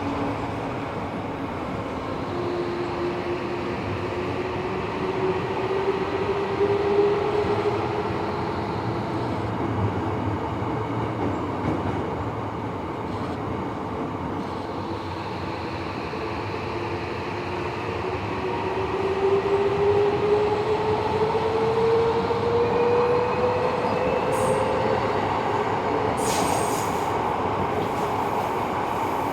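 Tobu 70000 series electric train running, heard from inside the passenger car: a steady rumble of wheels on rail under a VVVF inverter and traction-motor whine that rises slowly in pitch twice as the train picks up speed. A brief knock comes near the end.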